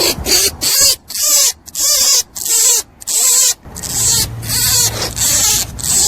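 Rabbit calling: a steady run of short squeaky calls, each rising then falling in pitch, about one or two a second.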